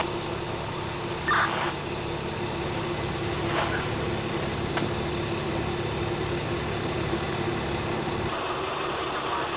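A vehicle engine idling with a steady, evenly pulsing low rumble that cuts off about eight seconds in. A brief, louder sound comes about a second in.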